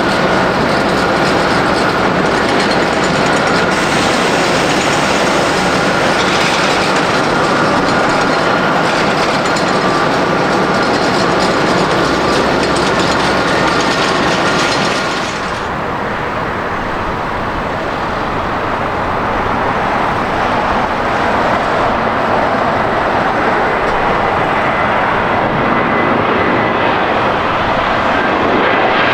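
Jet airliner engines running loud and close, a broad rushing roar with a steady whine over it. About halfway through the high hiss drops away abruptly and the deeper roar carries on.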